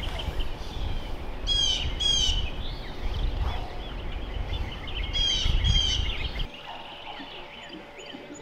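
Songbirds singing, one bird repeating a loud phrase of two quick downslurred notes twice, over a low rumble that cuts off about three-quarters of the way through.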